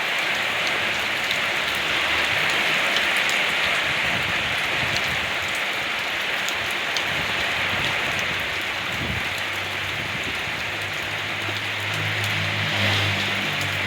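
Steady rain falling, with scattered drops ticking on a hard surface. A low hum joins in about ten seconds in.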